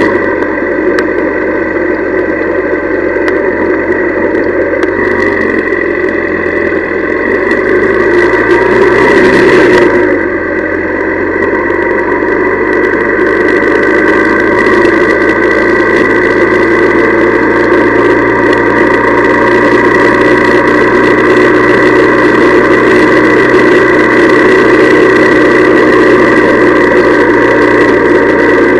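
Honda CL175's small air-cooled parallel-twin engine running, the revs climbing for a few seconds and then dropping suddenly about ten seconds in, after which it holds steady.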